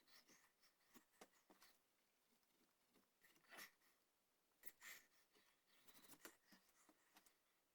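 Faint scraping cuts of a hand carving tool paring wood on a gunstock's cheek rest. The short irregular strokes come with scattered light clicks, and the loudest cuts fall about three and a half and five seconds in.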